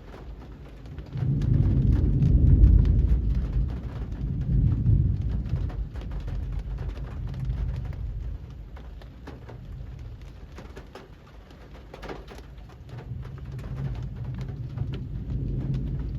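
Steady rain falling on a street, with a deep low rumble that swells about a second in, peaks soon after, swells again a few seconds later and builds again near the end.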